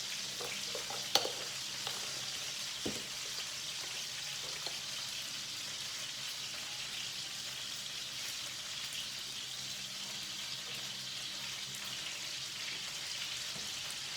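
Chicken pieces frying in a pan on lowered heat, a steady sizzle, with a couple of light knocks in the first few seconds.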